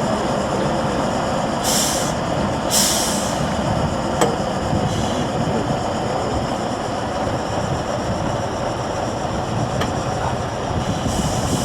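Heavy Tatra 813 8x8 off-road truck with its engine running steadily, and a few short hisses of air about 2 and 3 seconds in and again near the end.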